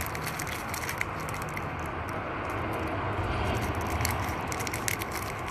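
Steady low background rumble with scattered light clicks and crinkles of wrapped chocolate bars being handled.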